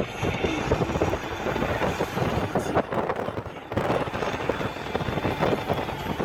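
Steady rushing noise with dense crackling and buffeting: a moving vehicle, with wind buffeting the phone's microphone.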